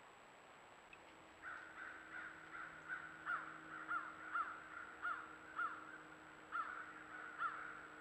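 Birds calling: a run of repeated calls, each dropping in pitch, about two a second, starting about a second and a half in.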